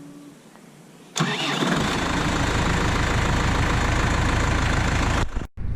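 New Holland tractor's diesel engine being started: it is cranked about a second in, catches within half a second and settles into a steady run. It breaks off for an instant near the end.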